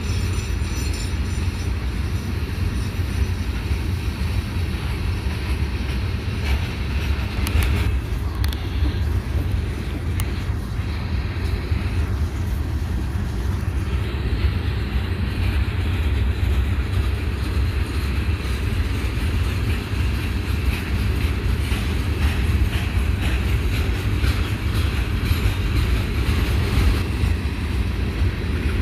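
Florida East Coast Railway freight train: a steady low rumble with a few brief clicks and rattles.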